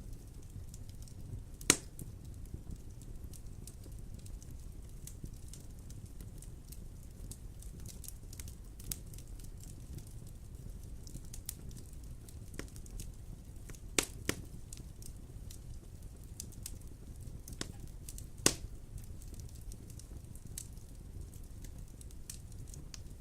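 Wood fire burning in a fireplace: a low steady rumble with scattered crackles and three louder pops, about two seconds in, about fourteen seconds in and about eighteen and a half seconds in.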